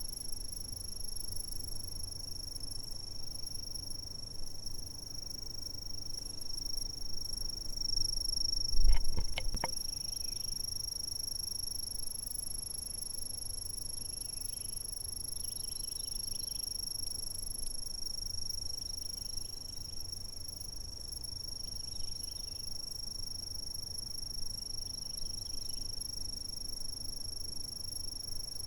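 Insects calling in a continuous chorus, one steady high-pitched unbroken trill. About nine seconds in there is a low thump with a few clicks, the loudest moment, and faint short chirps come and go in the second half.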